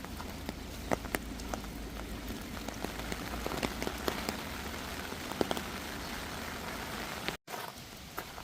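Steady rain falling, with many scattered sharp drop impacts pattering close by. The sound cuts out for an instant about seven seconds in.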